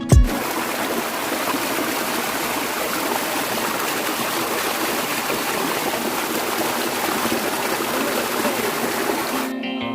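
Steady rush of falling water from a waterfall, a constant even hiss. Plucked-string music cuts in near the end.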